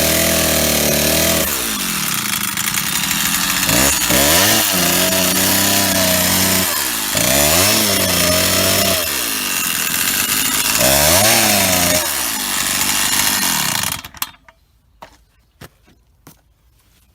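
Old Stihl 08S two-stroke chainsaw running loud, its engine speed repeatedly sagging and climbing back as it labours through a log; the saw is low on power and has a knock the owner places in the top or bottom end. About 14 seconds in the engine cuts off, leaving a few sharp clicks.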